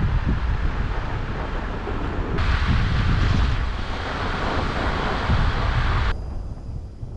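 Strong wind buffeting the microphone: a dense low rumble, with a louder hiss that comes in about two seconds in and cuts off abruptly about six seconds in, after which it is quieter.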